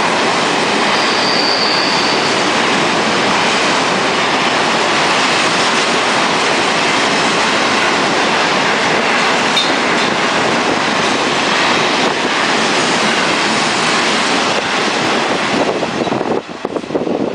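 Freight train of covered wagons rolling past close by: a loud, steady rush of wheels on rail, with a short high wheel squeal about a second in. Near the end the noise breaks up and falls away as the last wagon goes by.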